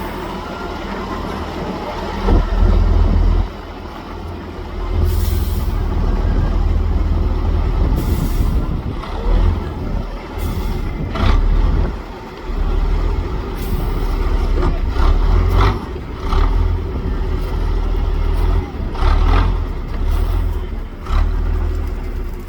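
Heavy off-road trial truck's engine working hard under load, surging and easing again and again, with several short hisses of air mixed in.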